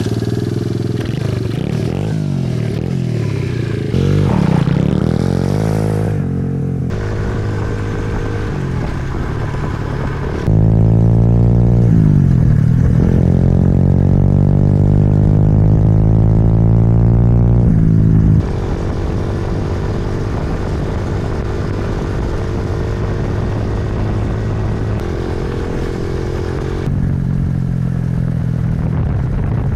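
Pit bike engine running and revving, its pitch rising and falling, in several stretches that cut suddenly from one to the next. It is loudest and revving hardest from about 10 to 18 seconds in.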